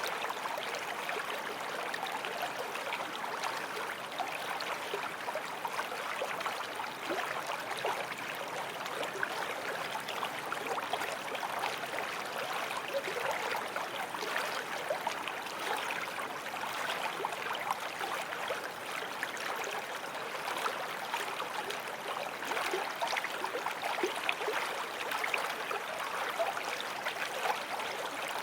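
Forest stream flowing over stones: a steady, even burble of running water.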